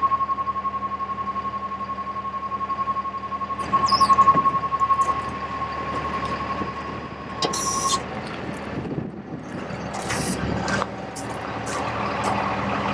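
Outrigger warning alarm on an Altec LRV55 bucket truck beeping rapidly at one steady high pitch while the outriggers are raised, over the truck's Mercedes-Benz diesel running. The beeping stops about eight seconds in, followed by a few short hisses and clunks.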